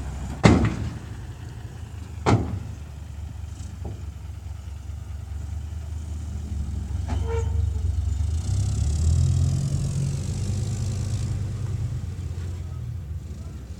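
Isuzu dump truck's 10PD1 V10 diesel engine running with a steady low rumble that swells for a few seconds in the middle and then eases off. Two sharp knocks sound in the first few seconds.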